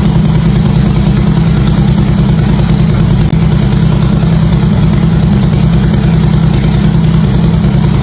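Harley-Davidson V-twin motorcycle engine idling steadily through its exhaust, a loud, even, low pulsing with no revving.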